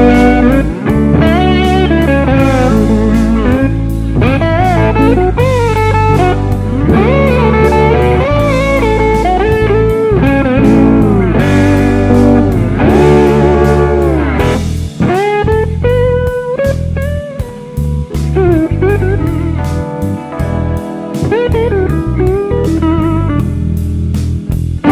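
Blues-rock band music: an electric slide guitar plays a riff with gliding, bending notes over bass guitar and a steady drum beat.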